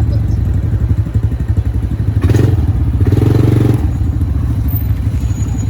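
ATV engine running with a steady pulsing beat, throttled up louder for about a second and a half in the middle before settling back.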